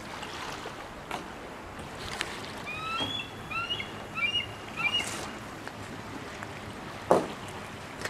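A run of short, hooked bird calls about three to five seconds in, over a steady background of water and wind, with a short knock near the end.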